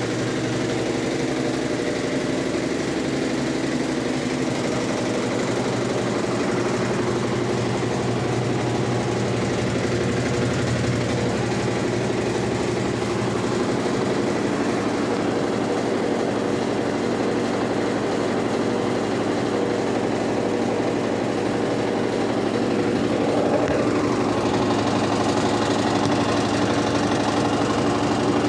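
Electrolux LTE12 washing machine running, a steady motor hum with vibration, a little louder from about 23 seconds in.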